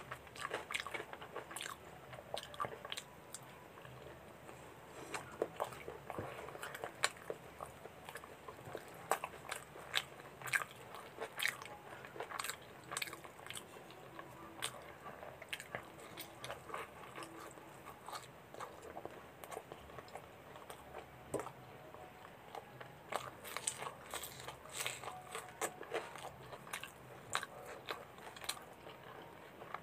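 Close-up eating sounds: a person biting and chewing deep-fried puri soaked in mutton gravy, with frequent irregular wet clicks and smacks of the mouth.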